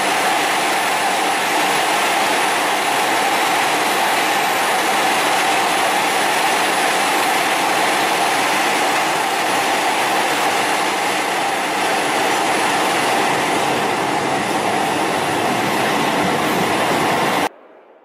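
Italo AGV high-speed electric train running, with a steady, loud rushing noise. The noise cuts off abruptly near the end.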